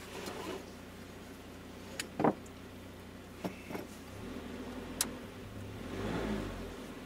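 A car's engine swells up from about four seconds in and dies away near the end, over a steady low hum. A few sharp clicks and a knock come from inside the cab.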